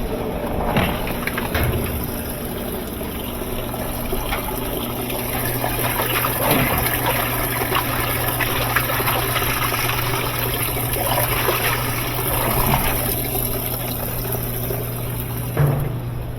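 Top-loading washing machine draining: its drain pump runs with a steady low hum while water splashes and trickles out of the drain hose.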